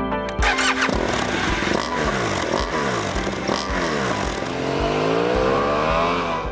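BMW R1200GS Adventure's boxer-twin engine revving in repeated blips, its pitch rising and falling several times, then a longer climb near the end. It starts about half a second in.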